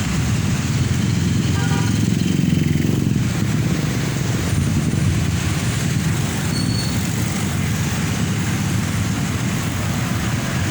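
Heavy truck diesel engines and street traffic passing, a steady low rumble that swells about two to three seconds in as a vehicle goes by.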